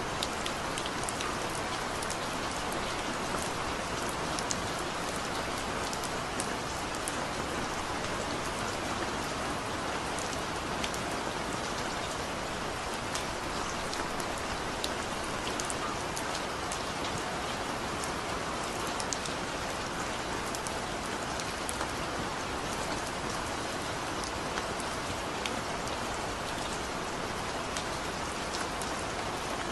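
Heavy rain falling steadily, an even hiss with many sharp drop ticks hitting a surface.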